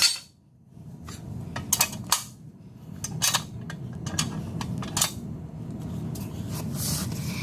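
Metal tools and parts clinking and clanking: a scatter of short, sharp metallic clicks over a few seconds.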